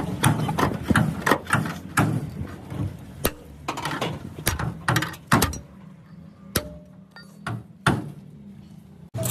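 Hand-tool work on the car: irregular sharp knocks and clicks, many in quick succession for about five seconds, then a few single strikes spaced apart near the end.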